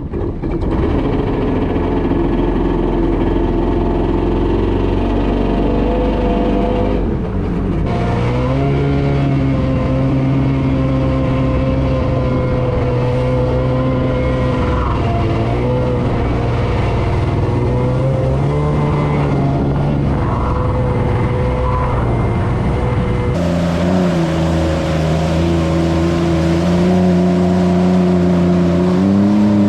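Two-stroke 701cc Yamaha Superjet stand-up jet ski engine running under throttle, its pitch rising and falling as the rider works the gas. The engine note changes abruptly about a third of the way in and again near the end.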